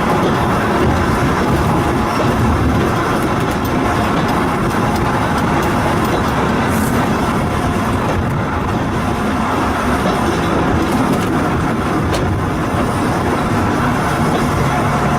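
Volks Electric Railway car running along the track: a steady rumble of wheels on rail, with a few faint ticks.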